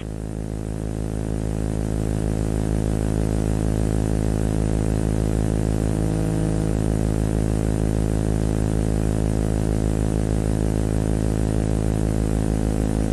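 A steady low droning hum, rich in evenly spaced overtones, swelling in over the first couple of seconds and then holding level without a break.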